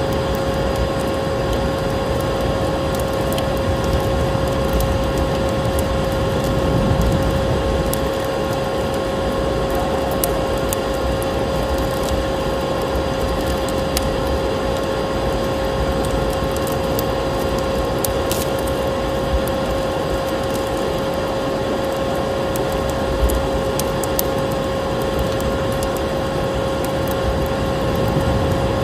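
Vacuum cleaner motor running steadily, a constant whine over an even rushing noise, with a few faint crackles of a wood fire.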